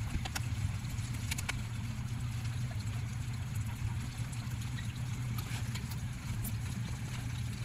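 Engine of a Suzuki DA64V van running steadily at idle.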